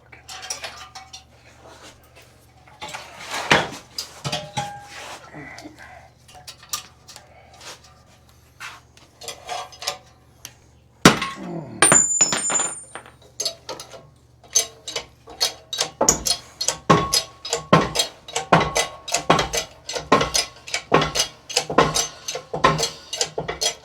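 Steel tools clicking and clanking against a bearing press tool on a car's wheel hub, with a sudden loud bang about eleven seconds in. After that, an even run of sharp ringing metallic clicks, about two or three a second.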